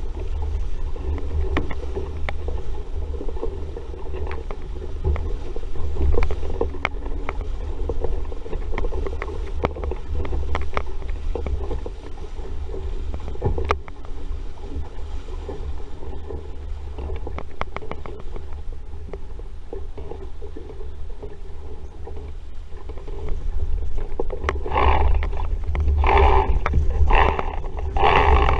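RS Vareo sailing dinghy under way in a breeze: water rushing and slapping along the hull, with a steady wind rumble on the microphone. Louder surges of water come in the last few seconds.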